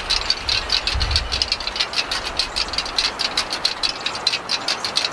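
The many small birds of a kinetic wind sculpture clicking and clattering rapidly and unevenly as it turns in the wind. A gust of wind on the microphone rumbles about a second in.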